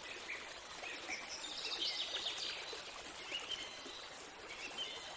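Nature ambience: small birds chirping over a steady, even hiss like running water, with a flurry of quick chirps about two seconds in.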